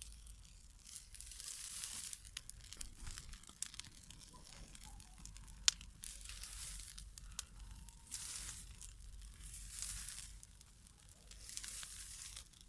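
Dry grass burning in an open fire, with rushing, hissing swells every few seconds as it flares and scattered sharp crackles and pops.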